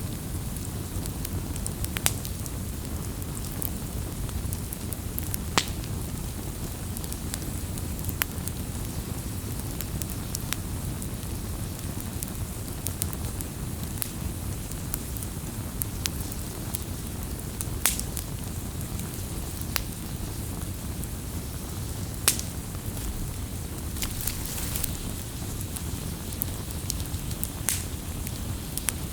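Wood fire crackling: a steady low rush of burning wood with scattered, irregular sharp pops and snaps, a handful of them louder.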